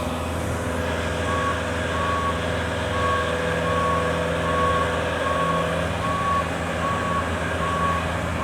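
Aerial lift's travel alarm beeping evenly, a little under twice a second, as the lift is driven forward. It starts about a second in, over the steady drone of the lift's motor.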